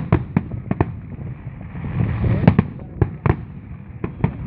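Fireworks display: a quick run of sharp bangs and cracks from bursting shells, with a rushing, crackling swell around the middle.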